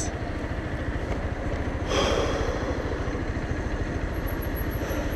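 Sym Wolf 125 motorcycle's small single-cylinder engine idling steadily, with a fast low pulse, while stopped. A brief rush of noise passes about two seconds in.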